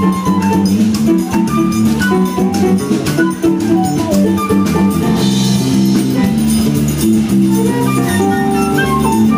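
A live Brazilian instrumental band playing a baião, with drum kit and percussion keeping a steady beat under a run of quick pitched notes in the low and middle range.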